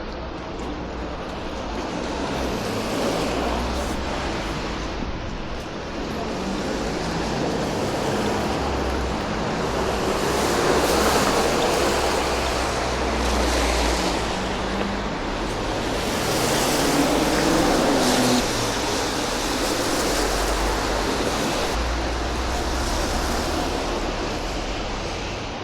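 Road traffic noise: a steady wash of tyre and engine sound, with vehicles passing one after another, each swelling and fading. A brief rising whine comes about two thirds of the way in.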